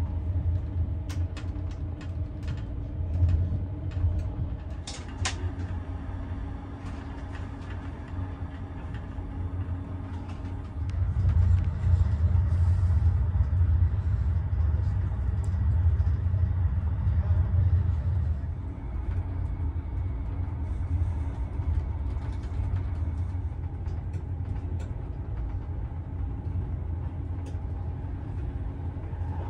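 Running noise of a moving sleeper train heard inside the sleeping-car compartment: a steady low rumble from the wheels and rails that swells louder for several seconds about a third of the way through, with scattered sharp clicks and creaks near the start.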